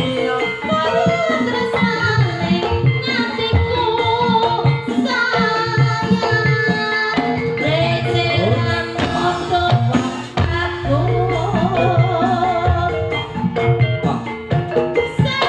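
Live dangdut-style music for an ebeg troupe: a sung melody with wavering pitch over sustained instrument tones and steady hand-drum beats, played loud through a PA.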